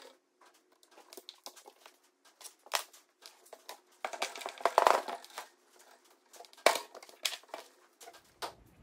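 Old door trim and fittings being handled and pulled off: scattered clicks and knocks, with a crinkling, rustling stretch about four to five seconds in.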